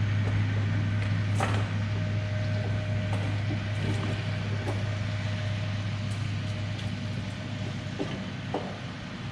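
Steady low machine hum in the shop, with a few light knocks, the first about a second and a half in and two near the end.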